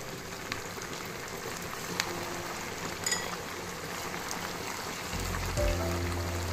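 Marinated chicken pieces frying in hot oil in a pan: a steady sizzle with scattered pops and crackles. Background music comes in near the end.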